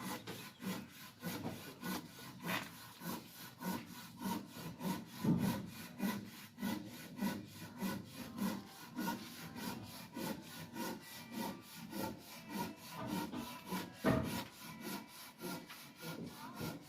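A dish or utensil being scrubbed with a dried sponge-gourd loofah: rhythmic back-and-forth rubbing strokes, about three a second. A single sharper knock comes about fourteen seconds in.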